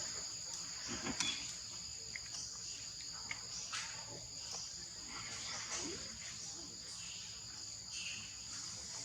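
A steady, high-pitched drone of insects, with scattered faint clicks and rustles over it.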